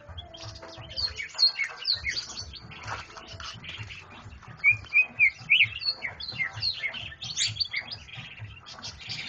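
Caged songbirds chirping and calling in quick, varied notes and sweeps, with a run of four loud, repeated short notes about halfway through.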